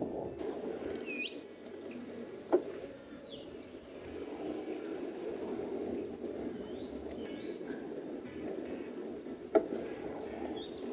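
Songbirds singing, with a quick repeated run of high chirps in the second half, over a steady rushing background. Two sharp knocks stand out, one about two and a half seconds in and one near the end.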